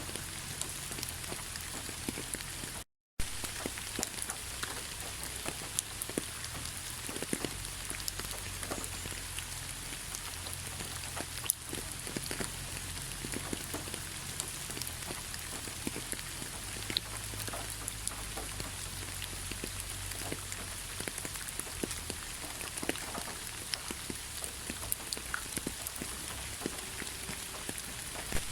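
Heavy rain falling steadily: a continuous hiss dotted with many individual drop hits. The sound cuts out completely for a fraction of a second about three seconds in, then resumes unchanged.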